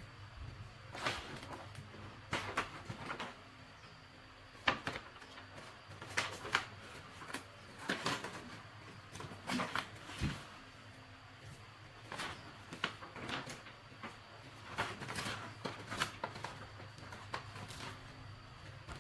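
Irregular light clicks and knocks from small objects being handled, a dozen or so scattered through, over a faint steady low hum.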